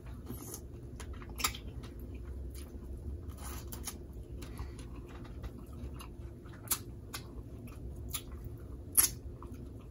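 Close-up eating sounds from a seafood boil: chewing with scattered sharp clicks and cracks as shellfish is handled, the loudest about a second and a half in and again near the end.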